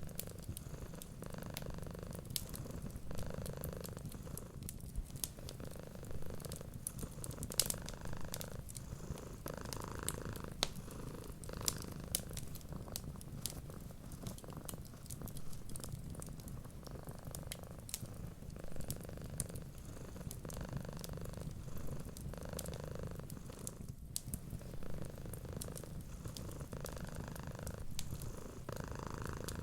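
Cat purring steadily, its low rumble swelling and easing with each breath, over the sharp, scattered crackles of a wood fire.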